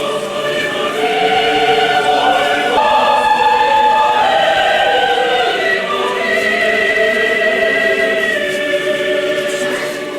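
Russian Orthodox church choir singing unaccompanied: several voice parts holding long, slow chords that change every second or two.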